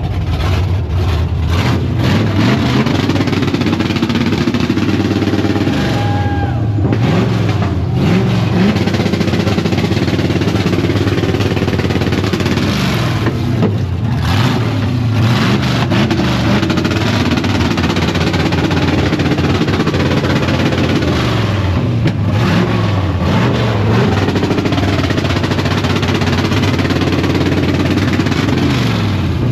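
Car engine revved hard over and over, its pitch climbing and dropping in repeated sweeps, loud and without a break.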